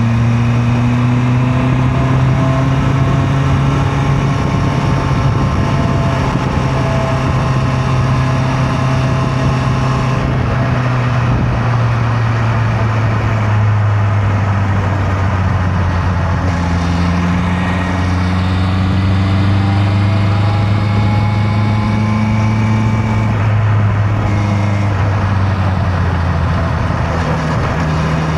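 Honda CB650R's inline-four engine running at a steady cruise, its pitch drifting slowly down and back up, over a constant rush of wind and road noise.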